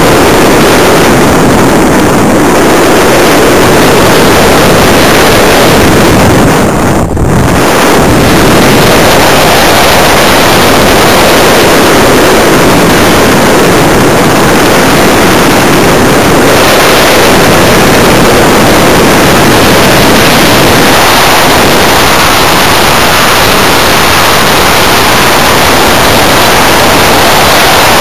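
Loud, steady rush of airflow over the onboard camera's microphone on a flying Simprop Hurricane electric RC glider, with a thin steady high whine under it and a brief dip about seven seconds in.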